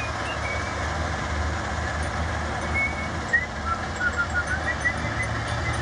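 Heavy diesel machinery running steadily, a deep engine rumble under a broad mechanical noise, with scattered short high chirps over it.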